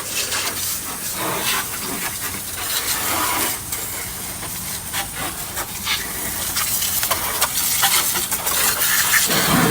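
Water spraying with a steady hiss, with scattered small knocks and clicks through it.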